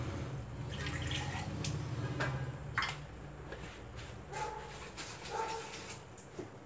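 Water sloshing in the grinder jar as the leftover tomato-coconut paste is rinsed out, with a sharp clink about three seconds in. A few short high calls sound in the background.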